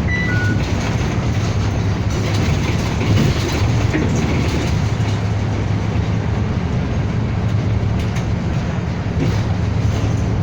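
Cabin noise of a moving city bus: a steady low engine drone under road and rattle noise. Two short high beeps sound right at the start.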